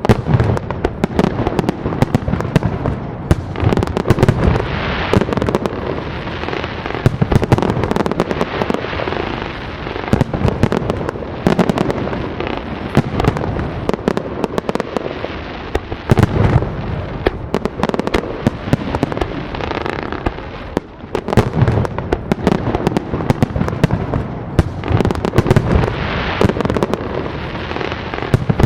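A fireworks display: a rapid, continuous barrage of shell bursts and bangs, with crackling and popping between them.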